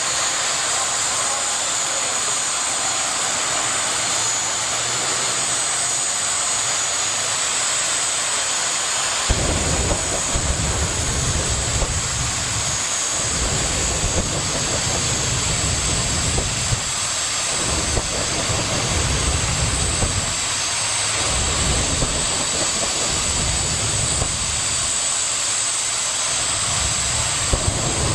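Jet engine of a jet-powered drag racing vehicle running with a steady high whine over a loud hiss. About nine seconds in, a deep rumble joins and keeps swelling and easing.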